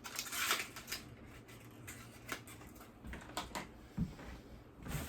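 Small items and plastic packaging being handled and rummaged through in a box: scattered light clicks and brief rustles, with a dull thump about four seconds in.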